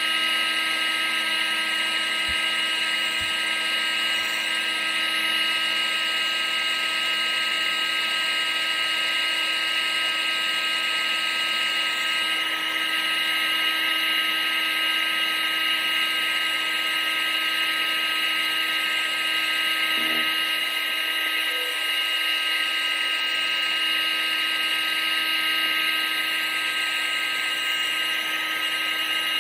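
Vacuum cleaner motor running steadily: a constant high whine over a rushing hiss of air.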